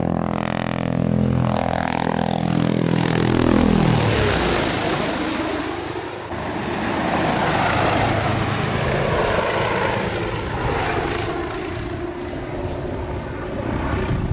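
Aircraft flying past: its engine tone drops steeply in pitch over the first few seconds as it goes by, then gives way to a loud rushing engine noise that slowly sinks in pitch.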